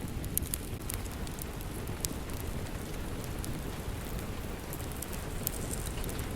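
Steady rain, heaviest in the low range, with sharp crackles and pops from a wood fire scattered through it.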